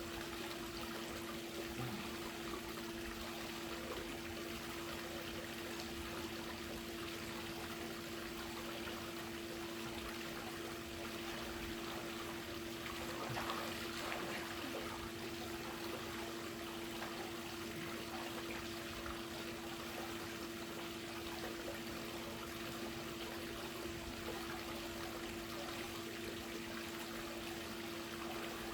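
Water trickling and splashing steadily in a pool, over a steady low hum.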